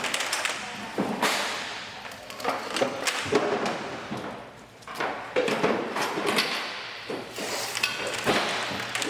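Repeated thumps, clunks and scraping as scrap poly pipe and used plumbing fittings are pulled out of a service truck bed and tossed, some knocks sharp, with short quieter gaps.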